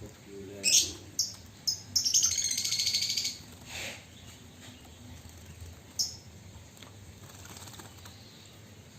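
Chinese hwamei calling: three short, sharp chirps in the first two seconds, then a rapid rattling burst lasting just over a second, and one more chirp about six seconds in.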